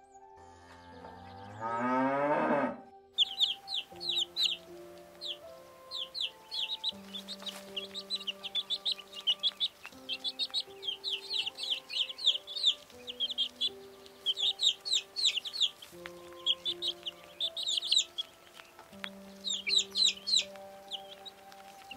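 A cow moos once, a long call ending about three seconds in. Then baby chicks peep over and over, short high falling chirps in quick clusters, over soft background music.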